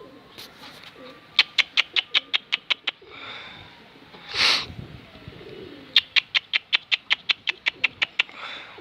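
Domestic pigeons around their loft, with two quick runs of sharp claps or clicks, about eight a second, and a short hiss between them.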